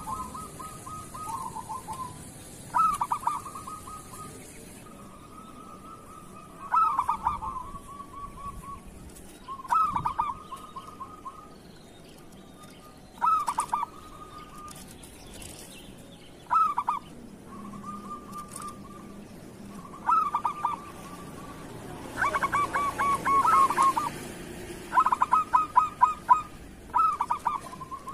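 Zebra dove (perkutut) cooing, its song phrase repeated about every three seconds: a quick run of short notes, then a longer steady coo. The runs of notes come closer together and louder towards the end.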